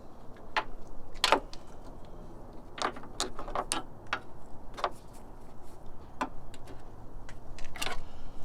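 Irregular sharp clicks and clinks of small metal tools being handled, about fifteen scattered strikes with short gaps between them.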